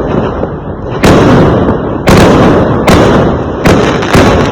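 Fireworks exploding: five loud bangs, roughly one a second, each trailing off in a rolling noisy tail that runs into the next.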